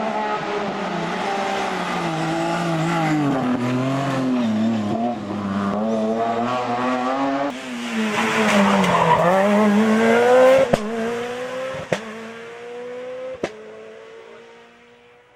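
Car engine revving, its pitch rising and falling again and again, then holding a steadily climbing tone as it fades away. Three short sharp knocks come in the last few seconds.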